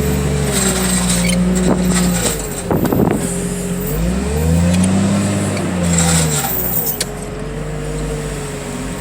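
Diesel engine of a scrap-yard loading machine running under hydraulic load, its pitch rising and falling as it revs while lifting a crushed-car bundle, with one long rev up and back down near the middle. A few metal knocks are heard in the first half.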